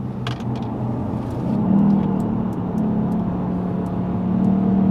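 Lexus GS450h hybrid's 3.5-litre V6 running with road noise as the car pulls out of a hairpin, its note stepping up about a second and a half in and then holding steady.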